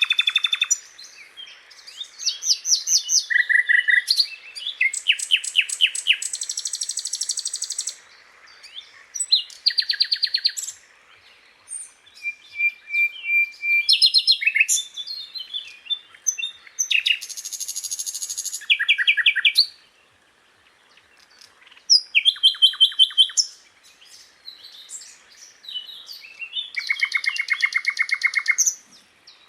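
Sikatan londo flycatcher singing: a string of varied, high-pitched phrases, each a fast trill of rapidly repeated notes lasting one to two seconds, separated by short pauses.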